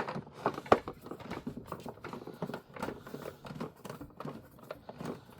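Small screw being driven into a plastic toy car body by hand with a screwdriver: a run of small irregular clicks and creaks, with one sharper click near the start. The screw is probably stripping the plastic threads.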